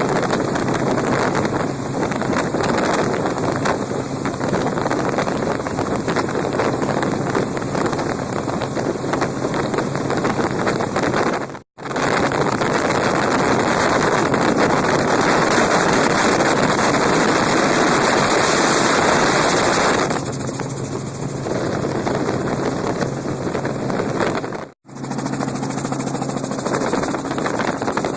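Helicopter engine and rotor drone heard from on board, steady, with a rush of wind. It drops out suddenly and briefly twice, and the wind rush is louder through the middle stretch.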